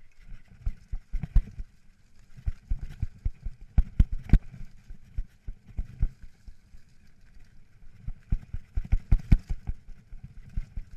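Mountain bike jolting over rough singletrack: many irregular sharp knocks and thuds from the bike rattling over rocks and roots, over a faint steady hiss.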